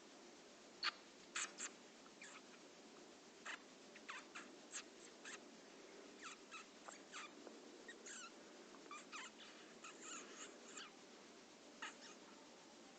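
Small fledgling bird giving short, high chirps at irregular intervals, some dropping in pitch, faint overall with a few sharper ones near the start.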